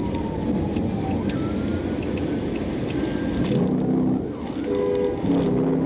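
Road and wind noise from a patrol car driving fast in highway traffic, with short steady tones about four seconds in and a longer steady tone near the end.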